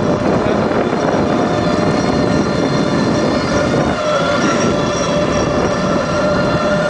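Mini bike engine running steadily under way, its whine holding one pitch and shifting slightly about four seconds in, over a dense steady rush of noise.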